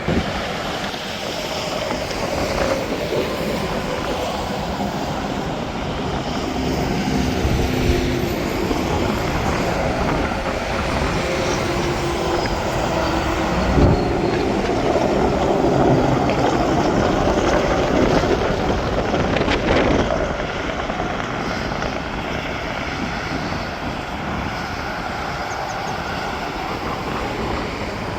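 Steady interstate highway traffic: heavy trucks and cars passing with tyre and diesel engine noise, building to the loudest pass about halfway through and then easing off.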